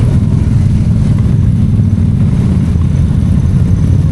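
ATV engine running steadily under way, a low, even drone with no revving changes.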